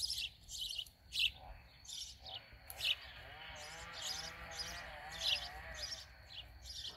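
Small songbirds chirping, short high calls coming every half second or so. A fainter wavering tone sits under them for a few seconds in the middle.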